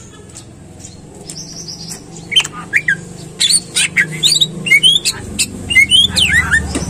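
Green leafbird (cucak ijo) singing: one held high whistle, then from a little over two seconds in a fast run of sharp chirps and rising and falling whistled notes, over a faint low hum.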